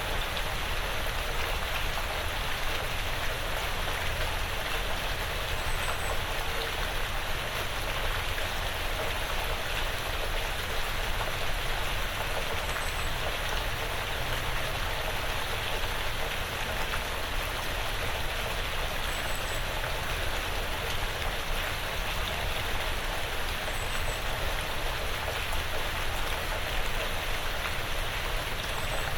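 Quiet, steady rain falling on a porch roof and the surrounding woods, an even patter throughout. A faint, high double chirp repeats about every six seconds.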